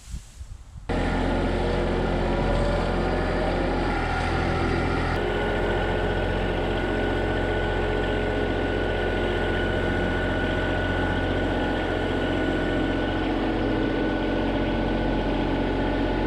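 John Deere subcompact tractor's diesel engine running steadily. It starts abruptly about a second in, and a steady whine joins it about five seconds in.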